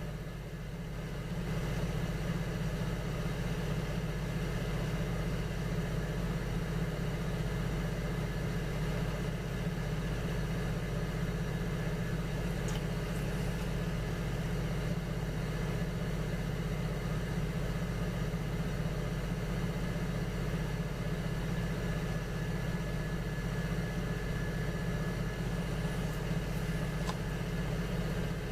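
Electric potter's wheel motor running steadily with a low hum and a faint whine, with a couple of small clicks.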